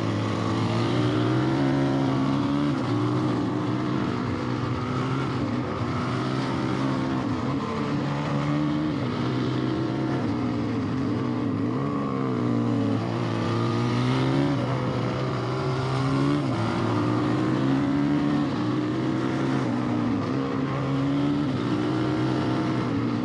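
An engine running without a break, its revs rising and falling every few seconds as it works under changing load.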